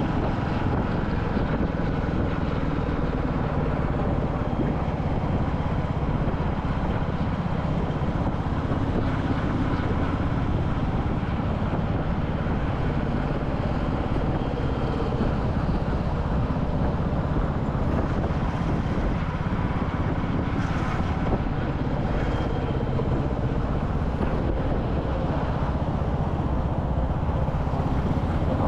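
Royal Enfield Classic 350's single-cylinder engine running at a steady, even pace while riding, with wind buffeting the microphone.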